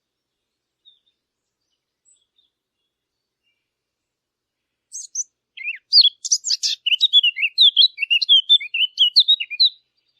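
Songbird chirping: a quick, twittering run of many short chirps and trills that starts about halfway through, after a few faint isolated chirps, and stops shortly before the end.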